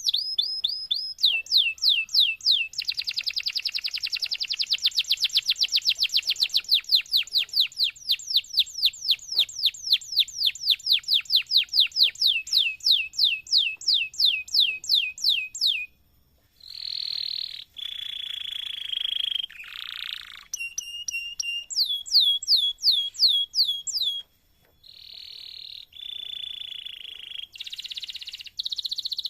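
Domestic canary singing a long song. First, fast trills of repeated downward-sweeping notes; then, after a short break about halfway, a run of varied rolling and buzzy phrases.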